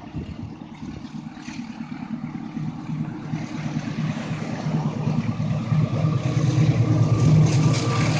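Diesel-electric locomotive hauling a passenger train on approach, its low engine drone and the rumble of the train growing steadily louder as it nears.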